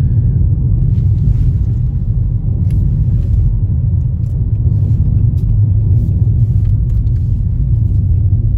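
Steady low rumble of a car moving on the highway, heard from inside the cabin, with a few faint clicks.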